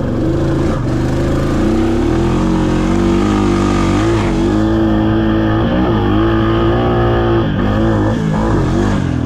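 Honda Rubicon quad's single-cylinder engine running under load on a rough trail, its pitch rising and falling repeatedly as the throttle is worked.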